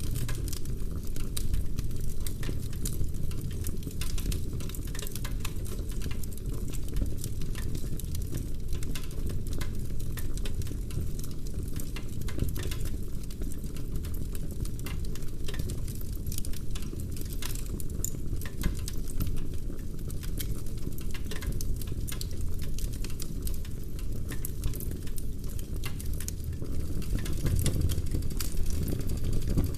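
Log fire burning in a fireplace, with dense, irregular crackles and pops of the burning wood over a steady low rumble of the flames.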